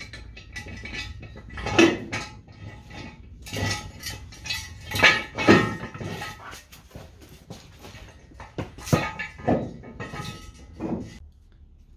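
Loose steel tubes and plates being picked up and handled, clanking and clinking against each other in a series of separate metal knocks, some briefly ringing.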